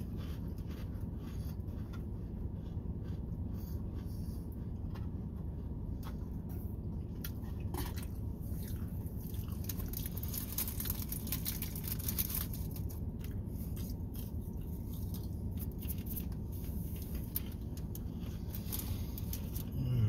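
A person chewing crackers with the mouth close to the microphone: irregular crunches throughout, thickest about ten to twelve seconds in, over a steady low hum.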